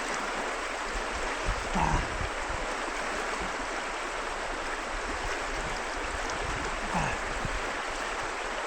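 Steady rush of a river's flowing water, with a couple of brief faint sounds about two and seven seconds in.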